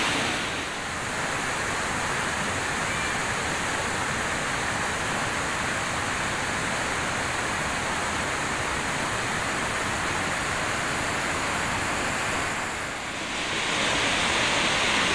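Waterfall, a steady rush of falling water. The sound dips briefly about a second in and again near the end.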